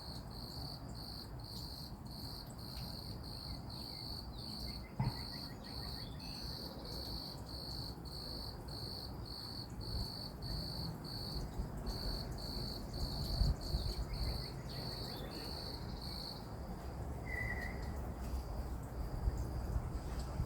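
A cricket chirping in a steady, even rhythm, about two high chirps a second, stopping about 16 seconds in. Faint bird chirps come through now and then.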